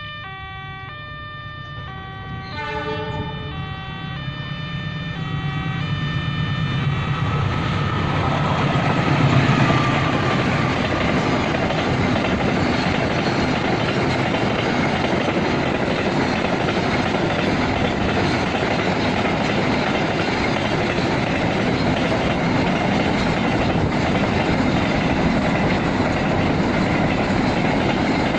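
A sequence of electronic tones sounds over the low rumble of an approaching diesel freight locomotive. After about seven seconds the train reaches the listener and wheel-on-rail noise from the passing freight wagons takes over, loudest at about nine seconds and then steady.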